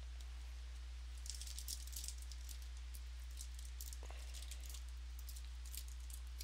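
Trading cards being flipped and slid through the hands, giving a run of faint, crisp flicks and rustles from about a second in, over a steady low hum.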